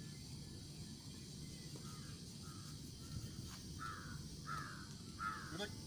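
A bird calling about five times in short calls roughly half a second apart, growing louder toward the end, over steady low background noise.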